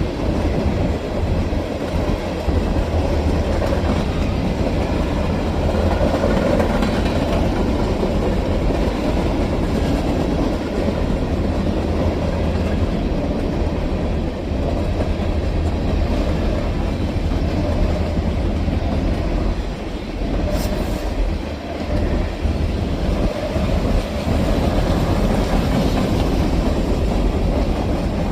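Freight cars of a passing grain train rolling by on the rails: a steady rumble of wheels with clatter over the track.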